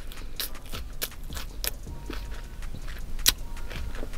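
Close-miked eating sounds: chewing a sub sandwich with scattered wet mouth clicks and smacks, one sharper click about three seconds in.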